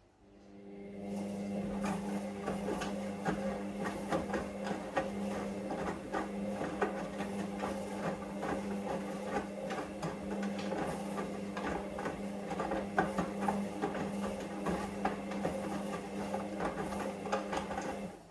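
Hoover Vision Dynamic washing machine running a wash: a steady motor whine over a scatter of clicks and clatter. It comes up over the first second and cuts off near the end.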